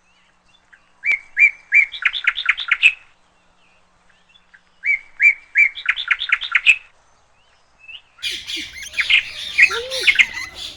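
Bird calling in two runs of quick, repeated high chirps, each run speeding up, then a denser jumble of chirps and squawks from about eight seconds in.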